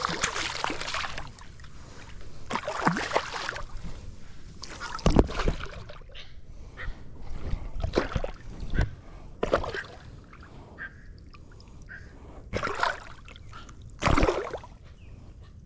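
Water splashing and sloshing at a kayak: about eight separate splashes, spread irregularly, with quieter water between them.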